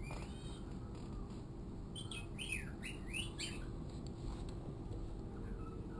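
Pet bird singing faintly: a short chirp, then a quick run of high, sweeping notes a couple of seconds in.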